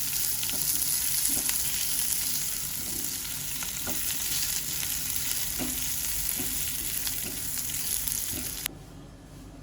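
Food sizzling in a hot pan while being stirred, with a utensil knocking lightly against the pan every second or so. The sizzle cuts off suddenly near the end.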